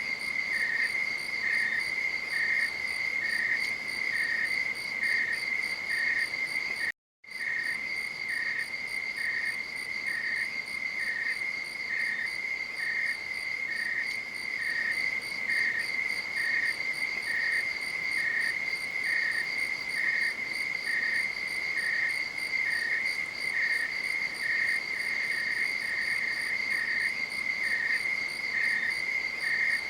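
Night insects chirping: a steady high trill with a second, slightly lower chirp pulsing about twice a second. The sound cuts out completely for a moment about seven seconds in, then resumes.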